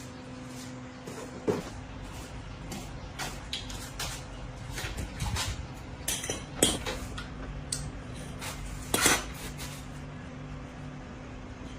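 Irregular light metallic clinks and knocks of metal bicycle parts and tools being handled, the loudest about one and a half, six and a half and nine seconds in, over a steady low hum.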